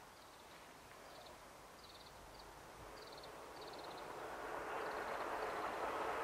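Diesel-hauled trolley sightseeing train approaching, its engine and rolling noise growing steadily louder through the second half. Short high trills from small animals repeat over the top.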